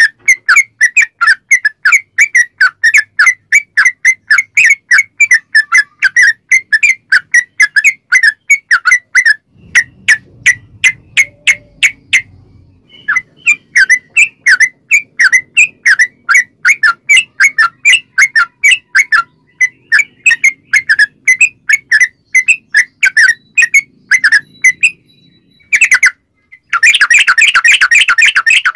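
Yellow-vented bulbul (trucukan) singing a long rapid-fire string of loud, sharp chirping notes, about three a second. There are short breaks about midway and near the end, followed by a denser flurry.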